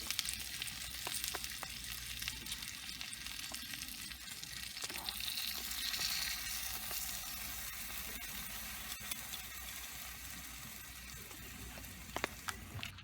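Food sizzling and frying in a skillet, a steady crackling hiss with a few sharp clicks near the end. The sound cuts off abruptly just before the end.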